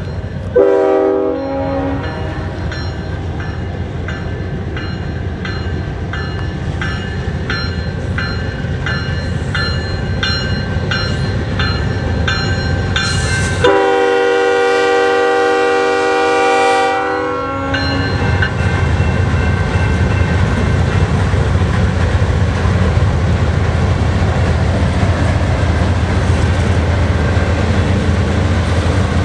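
Freight train led by a CN GE ES44DC diesel locomotive sounding its air horn: a short blast near the start, then a bell ringing steadily about once a second, then a long chord held for about four seconds midway, the loudest sound. After the horn, the locomotives' diesel engines and then the freight cars roll past close by, with clickety-clack from the wheels.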